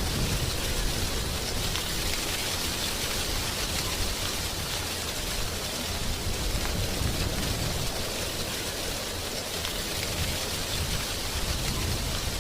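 Wind blowing through tree leaves, a steady rustling hiss with a low rumble of gusts underneath that swells and eases.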